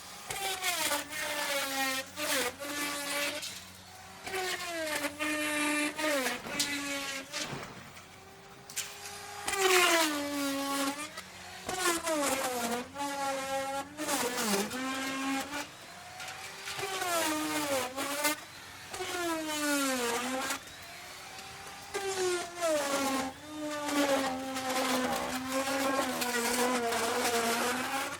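Electric wood router running, its motor whine sagging in pitch each time the bit bites into the wood and climbing back as the cut eases, over and over in a series of cuts.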